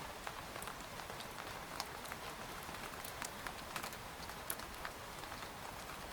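Steady light rain falling on a tent, with the separate ticks of individual drops landing on the fabric scattered through a soft even hiss.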